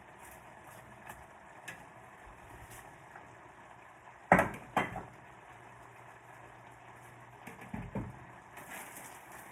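Two sharp knocks about half a second apart, with a few lighter clicks a few seconds later, over a faint steady low hum.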